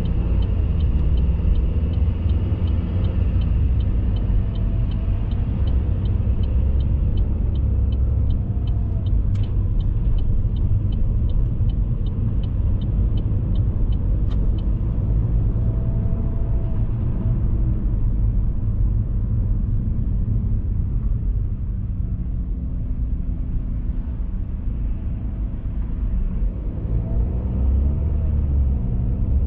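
Car driving: steady low road and engine rumble, with the engine's pitch rising and falling. A light, regular ticking, about two ticks a second, runs through the first half and stops about halfway through.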